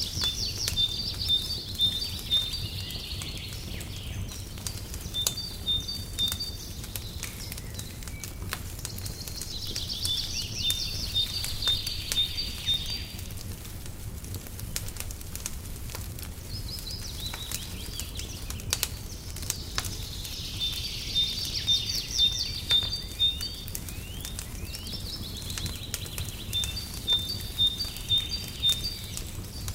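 Fireplace crackling with scattered sharp pops over a low steady rumble. A songbird sings over it: trilled phrases of quick repeated notes, one every few seconds.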